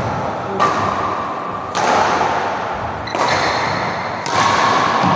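Badminton rackets striking a shuttlecock in a rally: four sharp hits about a second apart, each with a short ping from the strings, over a steady hiss.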